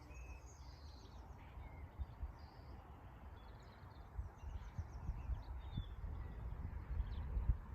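Small wild birds chirping and singing in short scattered phrases over a low, uneven rumble, with dull thumps that grow stronger near the end.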